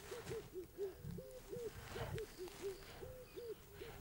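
A bird calling in a rapid, continuous series of short, low hooting notes, about four a second, with the pitch stepping up and down between notes.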